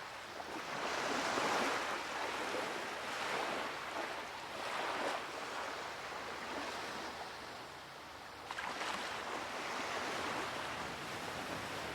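Surf washing up on a beach, the wash swelling and fading every couple of seconds.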